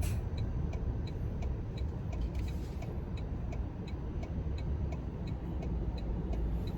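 Toyota Tundra's turn-signal indicator ticking steadily, about one and a half to two clicks a second, over the low road and engine rumble inside the truck's cab.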